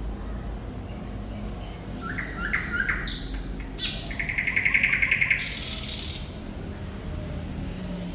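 Thrush nightingale singing one phrase: a few short high notes, a run of rising notes, a loud note and a click, then a fast rattling trill and a harsh rasp to close. A low steady rumble runs underneath.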